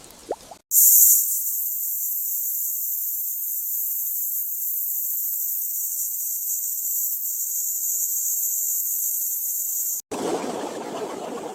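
Loud, steady, high-pitched insect drone of a rainforest insect chorus, cutting in suddenly under a second in and cutting off abruptly near the end. It gives way to a rush of flowing water.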